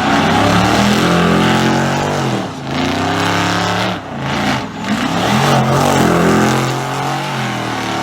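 Car engine running and being revved, its pitch rising and falling several times.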